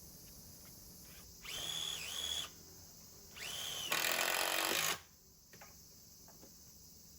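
Electric drill run in two short bursts, its motor whine rising as it spins up; the second burst grows louder and rougher near its end, as when the bit or screw bites into the wood.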